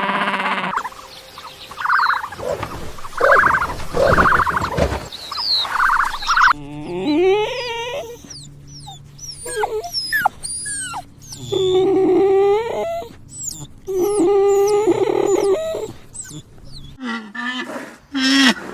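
A run of different animal calls, cut one after another. There are pitched calls and cries, with sharp high chirps and whistles through the middle stretch. The sound changes abruptly about a second in, again after about six seconds, and near the end.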